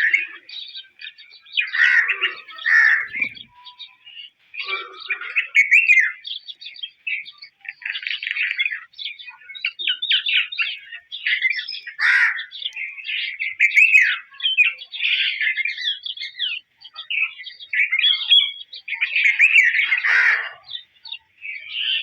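A songbird singing a long, varied run of rapid chirps and warbled phrases, with only brief pauses.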